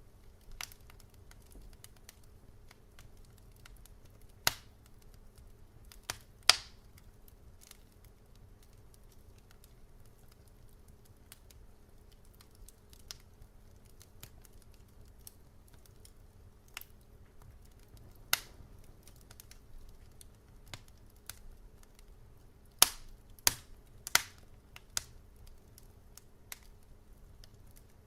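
Wood fire crackling in a fireplace: scattered sharp pops and snaps over a low steady hiss, with a quick cluster of louder pops near the end.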